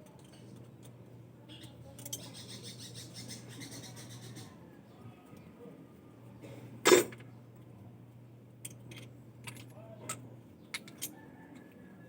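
Metal tools and parts clinking and clanking while being handled: a rattling stretch about two seconds in, one loud clank near the middle, then scattered light clicks, over a steady low hum.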